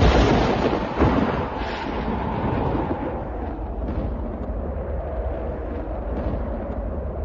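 Thunder: a sharp crack at the start and another about a second in, then a long rolling rumble.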